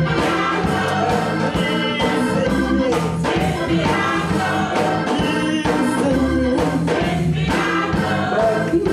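Gospel church choir singing with a live band: voices over a steady bass line and drum beats.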